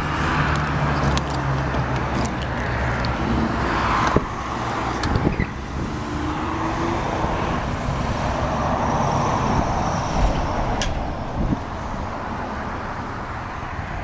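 A 1991 Chevrolet Silverado pickup's engine starts on a cold morning and runs at a steady idle. A few short clicks sound over it.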